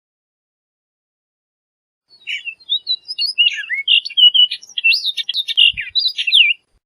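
Orchard oriole singing one rapid, jumbled song of quick whistled notes and slurs, lasting about four and a half seconds and starting about two seconds in.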